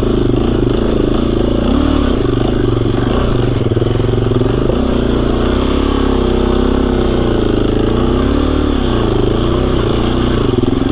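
KTM 350 EXC-F's single-cylinder four-stroke engine running under load, its pitch rising and falling with the throttle as the bike works through deep, swampy snow.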